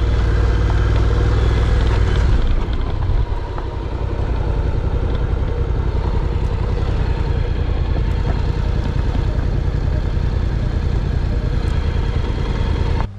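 Honda NC750X's parallel-twin engine running steadily at low revs, louder for the first couple of seconds and easing off about three seconds in.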